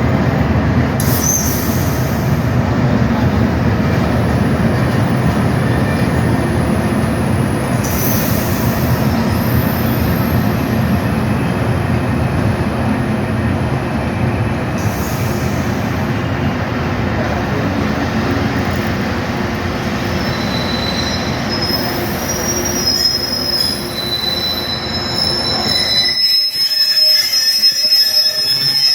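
Train running through a station with a loud steady rumble. In the last few seconds high-pitched wheel or brake squeal sounds as the rumble drops away suddenly.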